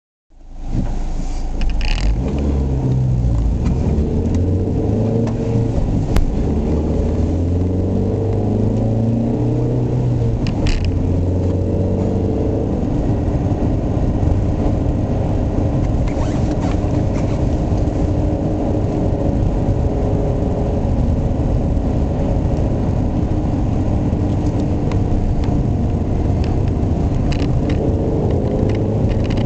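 Ford Mondeo Estate's 1.6-litre, 125 HP four-cylinder petrol engine running while the car drives along a road, over steady tyre and road noise. The engine note shifts slowly in pitch, and there are a few brief clicks. The owner finds this engine very noisy and unwilling to rev.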